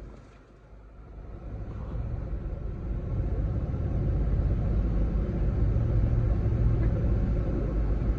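Car cabin noise while driving: a steady low rumble of engine and road, growing louder over the first few seconds and then holding steady.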